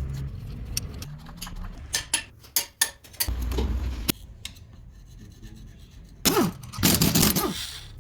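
Hand tools scraping and clicking on engine parts, with two loud rasping scrapes about six and seven seconds in.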